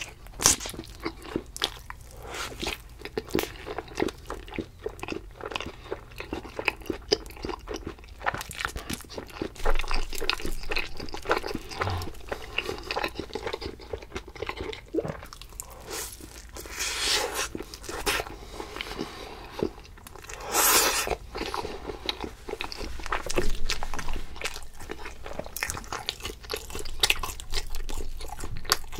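Close-miked chewing and biting of food: a dense run of wet clicks and crunches, with a few longer, louder stretches partway through.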